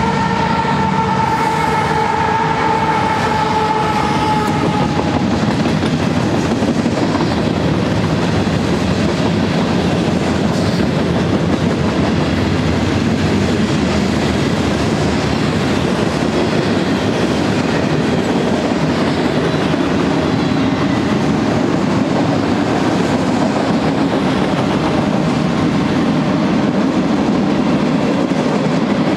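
Union Pacific mixed freight train cars rolling steadily past: autoracks, covered hoppers, tank cars and boxcars, with a continuous rumble and clickety-clack of the wheels over the rail. A held tone fades away over the first few seconds.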